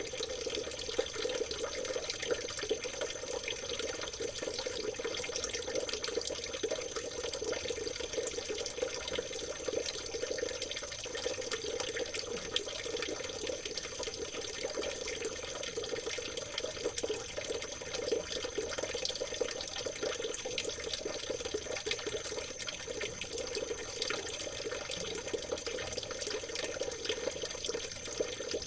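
Stream water trickling and babbling steadily over stones, a continuous splashing with no change.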